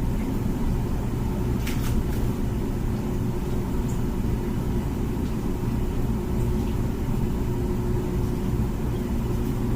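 Comfee dishwasher running its wash cycle: a steady low hum of the pump and water circulating, with a single light click about two seconds in.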